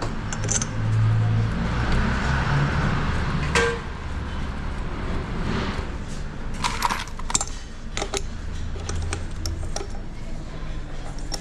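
Metal tools and small parts clinking and rattling as they are handled, with several sharp clinks about three and a half and seven seconds in, over a steady low hum.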